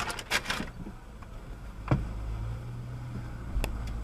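Low rumble of a vehicle running, with a sharp knock about two seconds in and a short click near the end.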